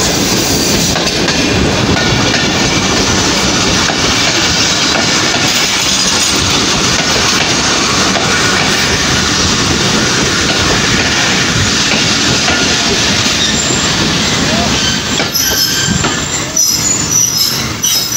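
Pakistan Railways passenger coaches rolling past close by, a steady loud rumble and clatter of steel wheels on the track. High-pitched wheel squeal comes in near the end as the train slows at the platform.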